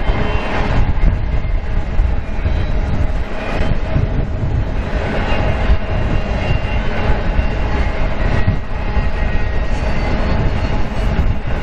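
Double-stack intermodal freight train's loaded well cars rolling past on the main line: a steady rumble of steel wheels on rail.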